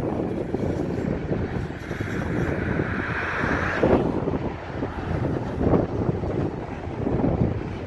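Autorack freight cars rolling past: a steady rumble and clatter of steel wheels on the rails, with wind on the microphone. A higher hiss builds through the first half and cuts off sharply about four seconds in.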